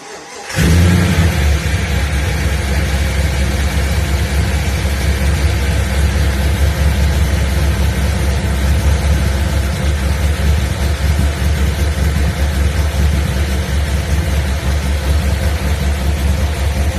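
Freshly swapped-in LS1 V8 cranking for a moment and catching about half a second in: the first start after the engine swap. It then keeps running loudly and steadily with a fast, even low pulse.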